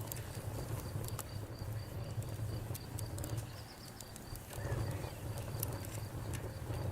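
Campfire crackling: wood popping in sharp, irregular snaps over a low rumble of flames. A cricket chirps steadily and evenly in the background.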